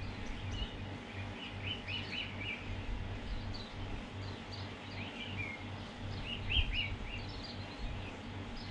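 Small birds chirping in short quick runs of high notes, several times over a few seconds, against a low steady hum.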